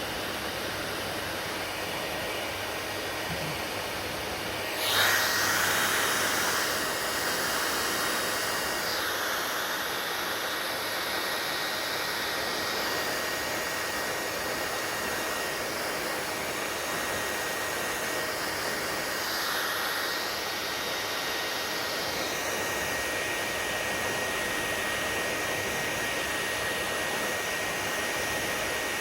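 Hair dryer running with a steady rushing hiss. About five seconds in it surges louder, and a thin steady whine holds from then on.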